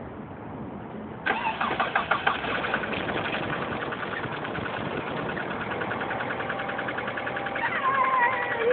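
The 1998 Mitsubishi Galant's engine starts about a second in and settles into running with a fast, even pulse, now that its corroded battery terminal has been replaced.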